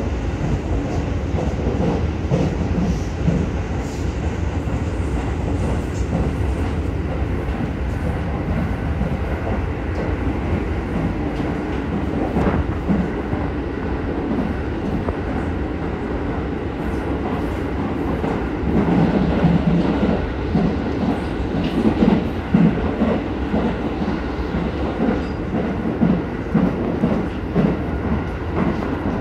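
Interior running noise of an Aonami Line electric commuter train under way: a steady rumble of wheels on rail with scattered knocks from the track. It grows louder and rougher for a few seconds about two-thirds of the way through.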